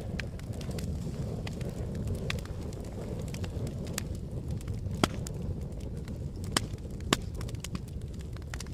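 Campfire crackling: scattered sharp pops and snaps of burning wood over a low steady rumble of flames, with three louder pops about five, six and a half and seven seconds in.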